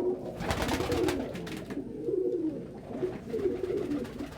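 Domestic pigeons cooing: a run of repeated low, swooping coos one after another, typical of cock pigeons courting, with a short rustle about half a second in.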